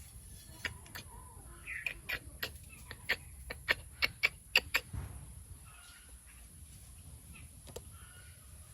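A bird calling: a quick run of short, sharp notes, about three a second, which stops about halfway through.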